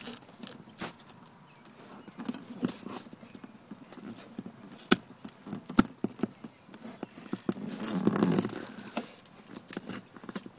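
Wire coat hanger being worked through a foil-covered cardboard box: scattered taps, scrapes and foil crinkling, with two sharp clicks in the middle and a longer rustle near the end.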